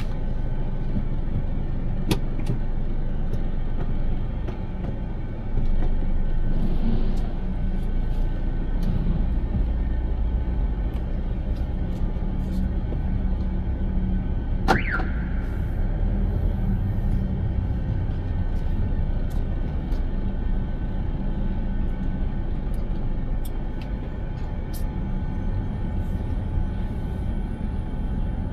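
Car driving, a steady low rumble of road and engine noise with scattered faint clicks. About halfway through comes one short, sharp sound that sweeps quickly in pitch.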